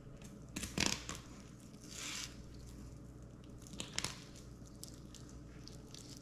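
Fillet knife slicing through a spotted seatrout: a few short cutting and tearing strokes, the loudest about a second in and another with sharp clicks about four seconds in.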